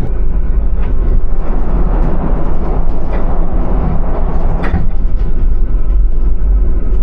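Argo Bromo Anggrek passenger train running at speed, heard from on board: a loud, steady rumble of wheels on rails, with a few brief clatters about a second, three seconds and nearly five seconds in.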